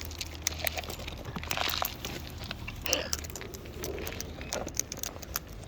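Wild cockatoos and lorikeets eating, their beaks cracking and crunching food in quick, irregular clicks, with a few short scratchy rustles.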